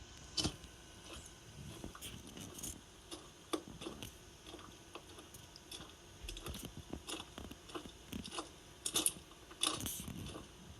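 Light, irregular clicks, rattles and small crunches of hard little pieces, scattered throughout, with a denser cluster of sharper clicks near the end.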